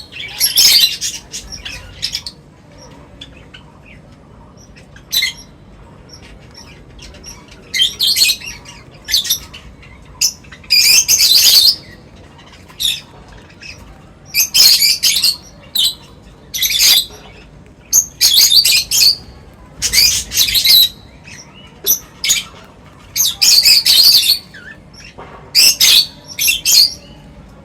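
Birds chirping in short, high-pitched bursts of up to a second each, about a dozen times, with quiet gaps between.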